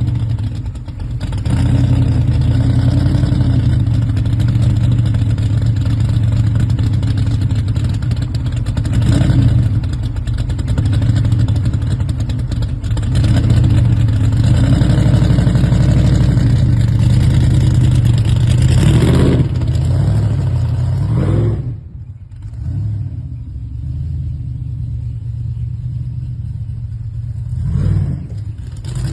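Loud muscle-car engine rumbling as it rolls slowly along the street, with short throttle blips about a third of the way in and again about two-thirds in. It drops away noticeably about three-quarters of the way through, leaving a quieter engine rumble.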